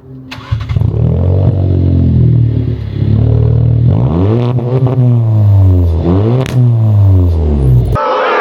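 Car engine with its mufflers and resonator removed starting up about half a second in, then running loud and being revved several times, the pitch rising and falling with each blip. The sound cuts off suddenly near the end.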